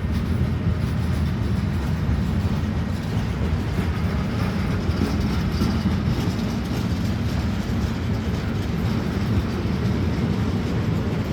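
Freight train hauled by an ÖBB class 1293 electric locomotive passing, a steady rumble of wagons rolling on the rails.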